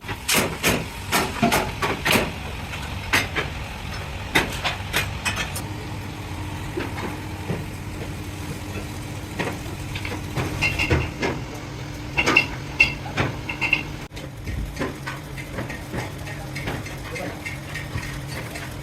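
Workshop noise: irregular metal knocks and clanks, thick for the first few seconds, over a steady machine hum that sets in about five seconds in. A few sharper clinks come near the middle.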